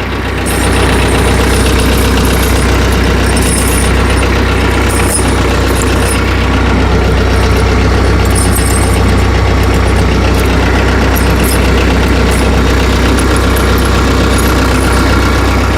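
Tractor engine idling steadily, with a few faint, short clicks over it.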